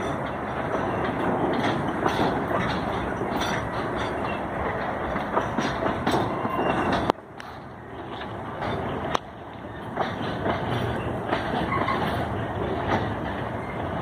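Freight train wagons rolling past, a steady rumble of wheels with repeated clickety-clack knocks over the rail joints. About halfway through the sound drops off abruptly for about two seconds, then comes back just as suddenly.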